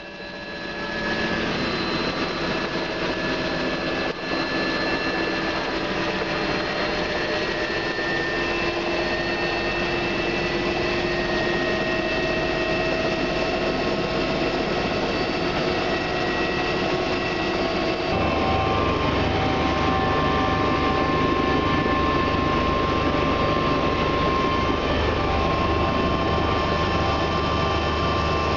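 Bell 429 helicopter's twin turboshaft engines and rotor running steadily, heard from inside the cabin, with several steady whining tones over a rumble. About two-thirds of the way through, the low rumble grows louder and the tones change.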